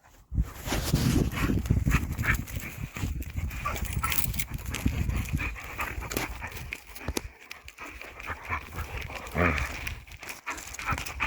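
Dogs play-fighting at close range, with a heavy low rumble and many short knocks and scuffles against the microphone.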